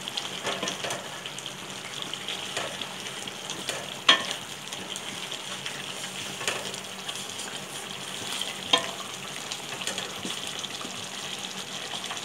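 Chicken karahi masala sizzling in a metal karahi while a wooden spatula stirs it: the bhunao stage, the tomato liquid cooked down and the spices being fried. A few sharp knocks of the spatula against the pan, the loudest about four seconds in.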